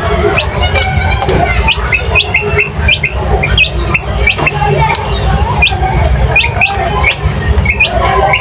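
Birds chirping and squawking in many short, quick calls, several a second throughout, over a steady low rumble.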